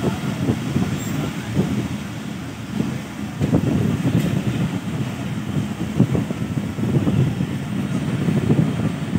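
Running noise of a Pakistan Railways passenger coach rolling along the track, heard from its open window as a steady, uneven low rumble.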